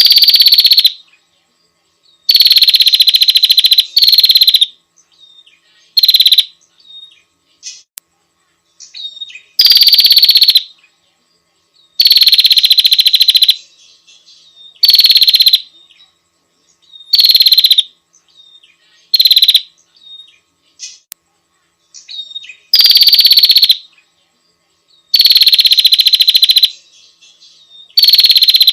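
Female prinia (prenjak) calling to a male, a loud, rapid, buzzy trill repeated over and over. Each burst lasts about half a second to two seconds and falls slightly in pitch, with short softer chirps in the gaps.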